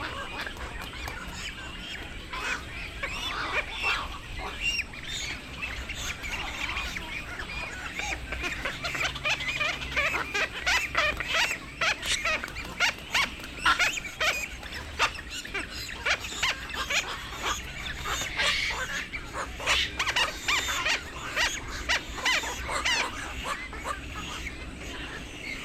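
Black-crowned night herons calling: a dense chorus of many short, harsh, overlapping calls, growing louder through the middle and easing off towards the end.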